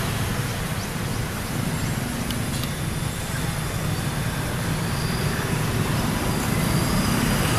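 Steady running noise of a passenger train moving away down the line, its wheels on the rails, with a fairly even level.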